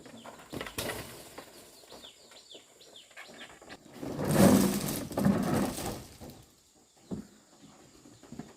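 Small birds chirping in a run of short falling calls. About four seconds in, a loud rustling noise lasts about two seconds, and a few short knocks follow near the end.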